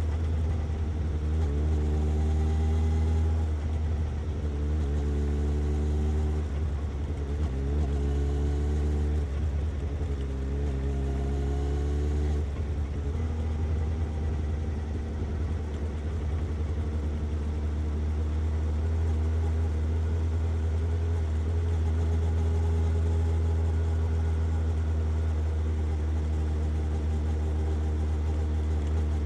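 Suzuki GSX-S750 inline-four motorcycle engine and exhaust idling steadily. Over the first twelve seconds or so, a higher tone rises four times over the idle, then the idle runs on evenly.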